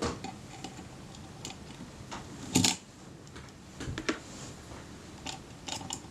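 Small metal clicks and light scraping as a Kodak Retina IIIS rangefinder assembly is worked into the camera body, its arm's pin being coupled into a slot. The loudest is a brief clatter about two and a half seconds in.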